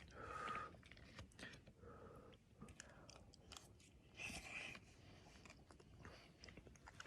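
Faint chewing and mouth sounds of a person eating a spoonful of rehydrated freeze-dried camping lasagna, with a few soft clicks.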